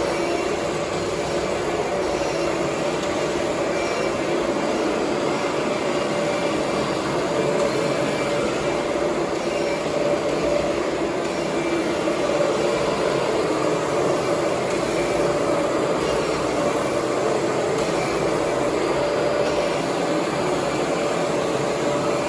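Kirby G4 upright vacuum cleaner running steadily, its motor holding a constant pitch.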